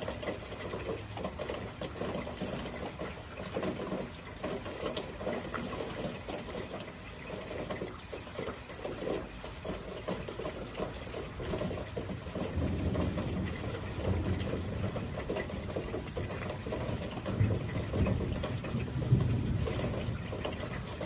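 Steady rush of running, gushing water; a lower rumble joins in about halfway through and grows louder near the end.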